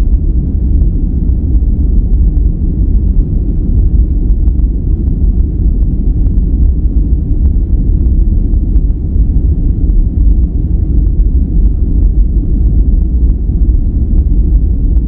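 A steady, unchanging noise track, billed as white noise, with its weight in a deep rumble and very little high hiss.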